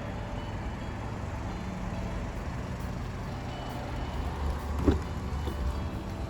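A 2020 BMW 330i's 2.0-litre turbocharged four-cylinder and road noise, a steady low rumble heard from inside the car while driving. A single brief knock comes about five seconds in.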